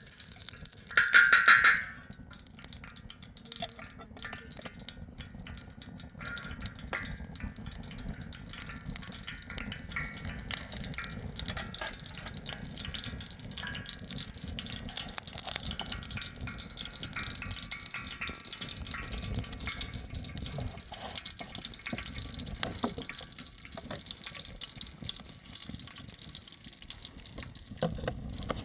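Water splashing and dripping, as in washing by hand, with many small clicks. A short, loud, high-pitched sound comes about a second in.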